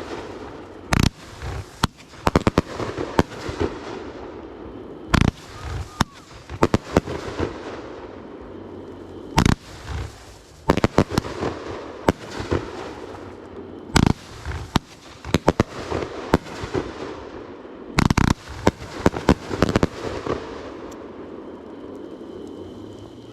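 Fireworks going off: a loud bang about every four seconds, each followed by a rapid string of crackling pops.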